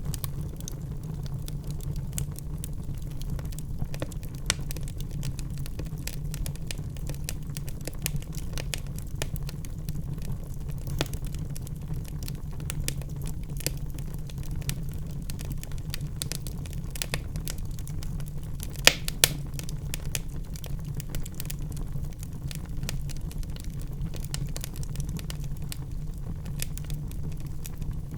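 Logs burning in a fireplace, crackling: a steady low rumble of flame with many small snaps throughout, and two louder pops close together about two-thirds of the way through.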